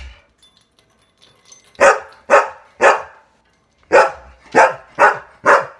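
Dog barking: three quick barks, a short pause, then four more.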